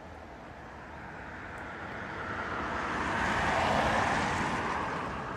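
A vehicle passing by: a rushing noise that swells to a peak about four seconds in and then fades away.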